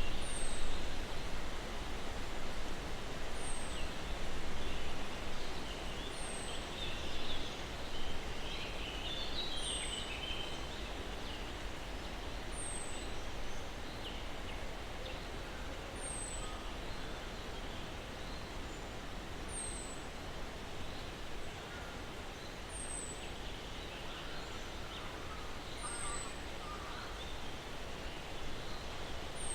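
Soft breeze rustling through pine branches as a steady hiss, with distant birds chirping in scattered bursts, busiest in the first third and near the end. A thin, high falling note repeats evenly about every three seconds.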